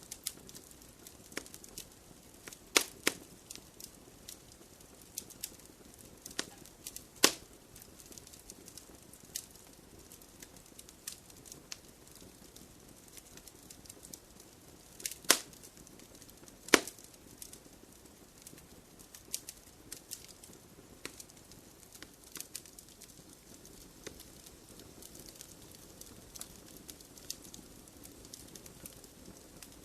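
Wood fire crackling in a fireplace: irregular sharp pops and snaps over a soft low hiss, with a few louder pops scattered through.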